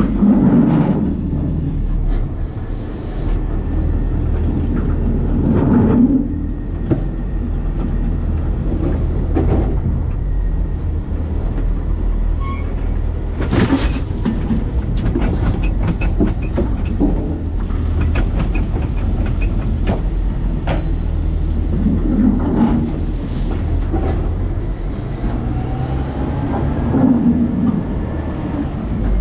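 New Way Sidewinder side-loader garbage truck heard from inside its hopper: a steady low rumble with rattling and clanking of the steel body, several swells in loudness and a few sharp metal knocks, the loudest about halfway through.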